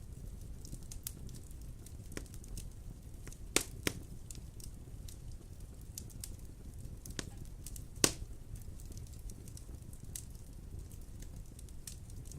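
Wood fire burning with a steady low rumble and scattered sharp crackles and pops, the loudest pops about three and a half, four and eight seconds in.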